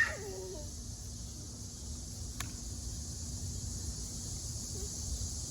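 Quiet outdoor background: a low rumble and a steady high hiss, with a single faint click about two and a half seconds in.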